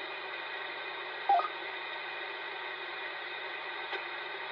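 Albrecht AE 8000 CB radio's speaker hissing steadily with band-limited static: an open channel with no one talking between transmissions. A short chirp sounds about a second in.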